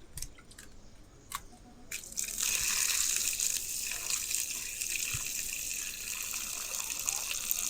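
A few light clicks and drips, then water starts running or pouring steadily about two seconds in, like a tap or spout filling a vessel.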